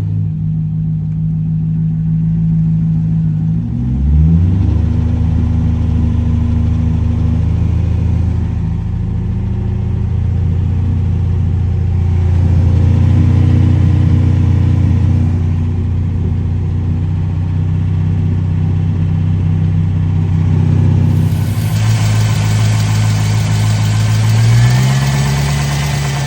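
An LS2 V8 idling steadily. Its engine speed rises briefly about four seconds in and again near the end, and a hiss joins in about three-quarters of the way through. The owner ran it too low on oil and suspects a ticking lifter.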